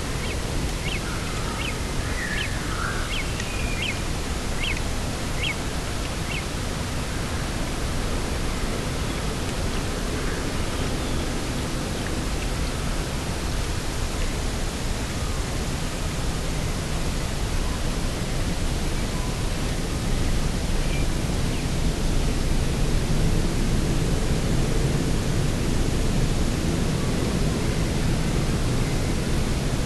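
Steady rushing wind noise, swelling slightly in the lower range after the midpoint. A bird gives a quick run of short, high chirps over the first few seconds, with one faint call later.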